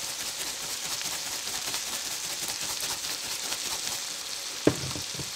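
Onion, mixed vegetables and minced garlic sizzling in melted butter in a frying pan: a steady hiss, with a single knock near the end.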